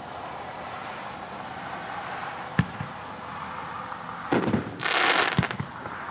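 A Righteous 500-gram consumer fireworks cake firing, heard from a distance over steady wind noise. A single sharp report comes about two and a half seconds in, then a cluster of bangs just after four seconds, followed by about half a second of crackling.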